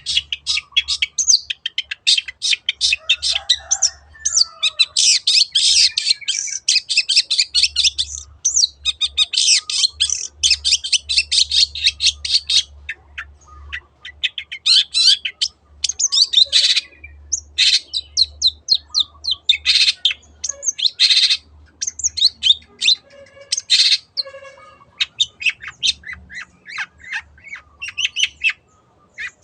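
Long-tailed shrike (cendet) singing: fast runs of sharp, high chattering notes in bursts, broken by short pauses.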